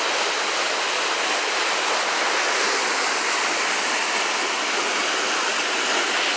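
River water rushing, a steady hiss of flowing water.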